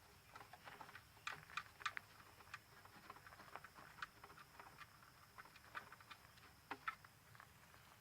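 Used engine oil draining from the oil pan into a drain pan, heard as faint, irregular pattering and ticking drips.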